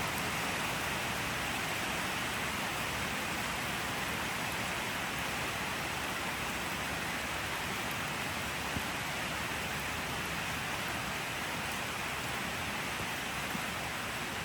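Steady rain, an even hiss of falling drops with a few faint single drop ticks.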